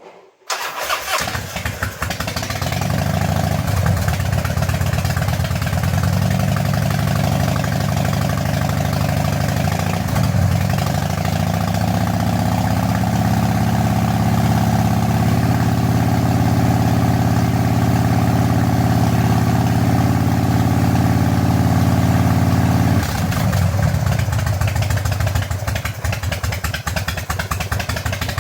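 Harley-Davidson Evolution air-cooled V-twin starting just after an engine oil change and settling into a steady run. Its engine speed rises slightly from about twelve seconds in and drops back to a lower idle about twenty-three seconds in.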